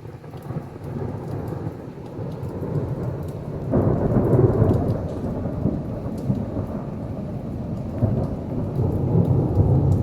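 Long rolling thunder over heavy rain, the rumble swelling sharply about four seconds in and again near the end.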